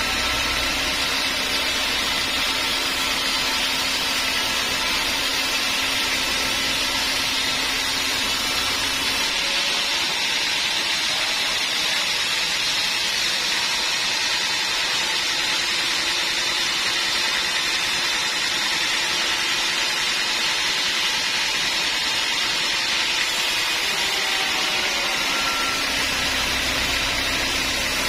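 Sawmill machinery running steadily, a loud constant mechanical noise; a low hum drops out about nine seconds in and comes back near the end.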